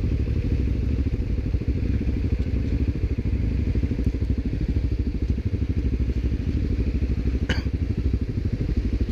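An ATV engine running steadily with a fast, even pulse, and a single short click about seven and a half seconds in.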